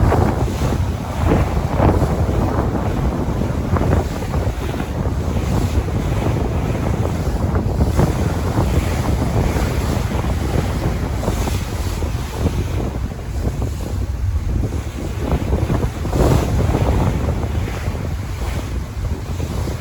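Sea waves washing and breaking, with wind buffeting the microphone as a heavy, steady low rumble throughout.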